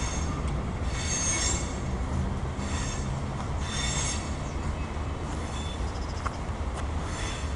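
Freight train rolling past with a steady low rumble, its wheels squealing high-pitched several times in short bursts.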